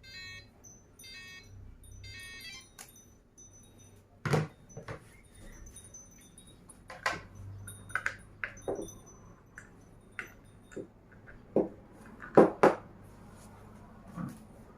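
Small hard parts being handled, clinking and knocking with a dozen or so separate sharp taps and clicks, the loudest about four seconds in and near the end. A short pulsing buzz sounds in the first couple of seconds.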